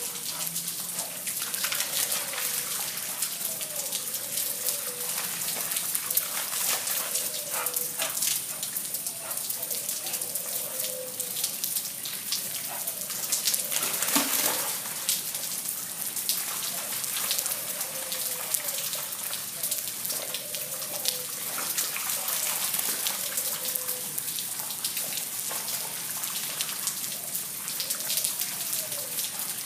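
Rain falling on standing floodwater: a steady hiss thick with small drop ticks. Short rising-and-falling calls repeat every second or two behind it.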